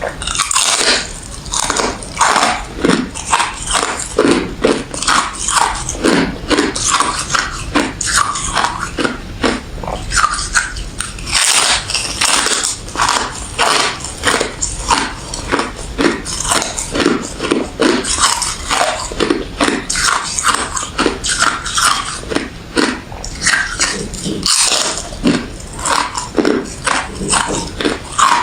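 Close-up crunching of refrozen crushed ice and thin frosty freezer ice being bitten and chewed, a rapid irregular run of crisp crunches with a couple of brief pauses.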